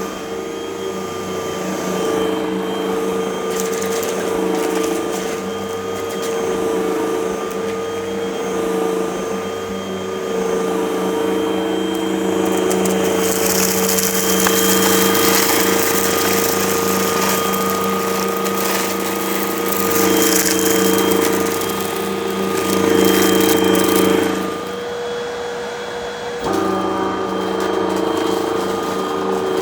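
Vacuum cleaner running with a steady motor drone and whine while it sucks up crunchy debris. There is dense rattling and crackling for about ten seconds in the middle. The motor tone shifts a few seconds before the end.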